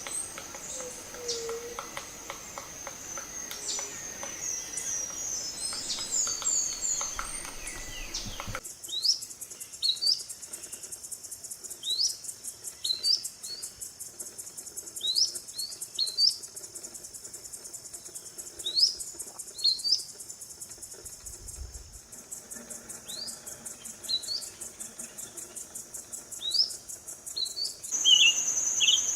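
Several birds singing and calling. After a few seconds the sound cuts to one bird giving short, rising high chirps every second or two over a steady high insect buzz, and near the end it cuts again to a louder, steady high trill with chirps.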